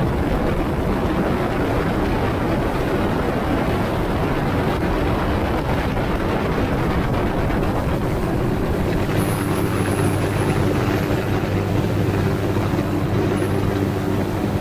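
MD 500D helicopter in flight, its rotor and turbine a loud steady rush mixed with wind blowing over the microphone. About nine seconds in, a steady layered hum from the engine joins in under the noise.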